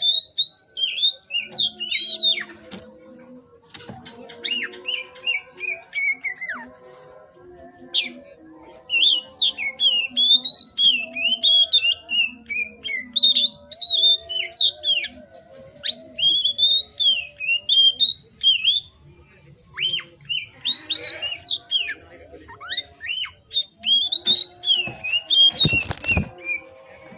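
Oriental magpie-robin (kacer) singing a long run of fast, varied whistled phrases in several bouts with short pauses, over a steady high-pitched whine; a single knock sounds near the end.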